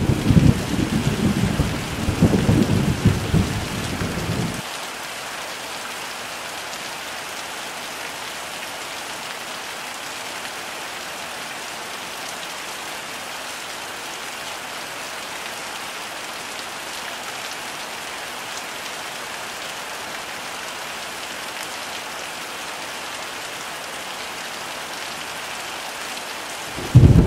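Heavy rain falling steadily, with thunder rumbling low under it for the first few seconds and then cutting off suddenly. The thunder starts up again abruptly near the end.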